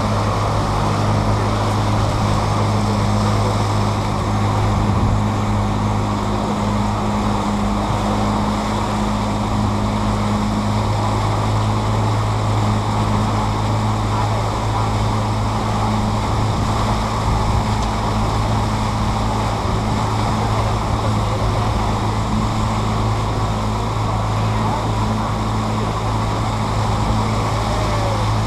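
Tour boat's engine running at a steady, unchanging pitch as a low hum, with rushing water and wind noise.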